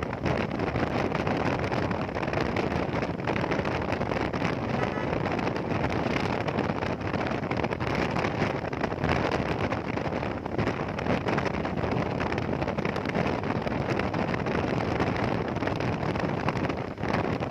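Steady rush of wind on the microphone of a moving motorcycle, with road and engine noise of the Hero Xpulse 200 underneath.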